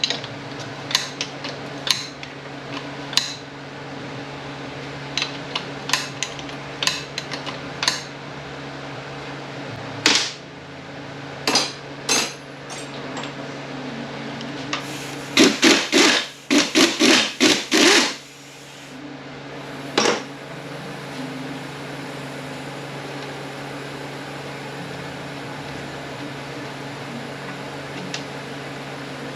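Metal tools and automatic-transmission parts clicking and knocking during teardown, with a quick run of about eight loud strikes in the middle, typical of hammer blows on the case. A steady low hum runs underneath.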